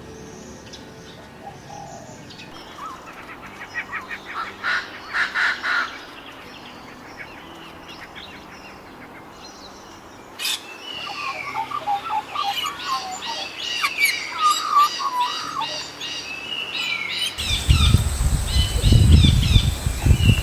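Small birds chirping and calling in short, quick notes that grow busier partway through. About three seconds before the end, a loud low rumble joins in underneath.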